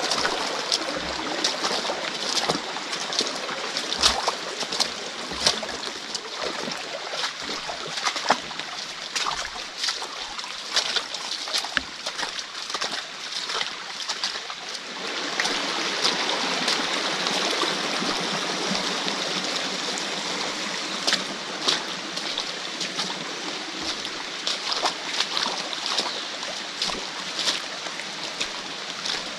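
Stream water rushing, with many sharp taps and clicks over it; the rushing becomes denser and steadier about halfway through.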